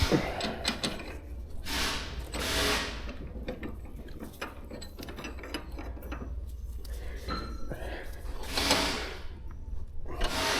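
Clicking and rattling of metal bicycle parts being handled while the rear wheel is fitted into the frame, with two brief swishing sounds.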